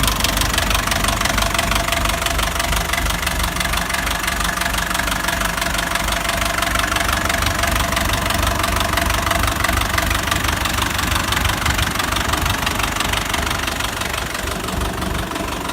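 Ferguson TEF 20 tractor's diesel engine idling steadily with a typical diesel knock.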